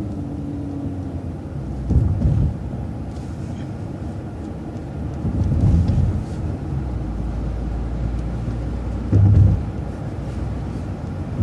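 City transit bus running, a steady low rumble inside the bus, with three heavier low thumps about two, six and nine seconds in.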